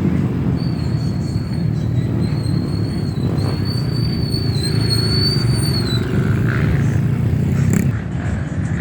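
Off-road trail motorcycle engines running in a steady, loud low rumble, with a thin high whine over it for several seconds.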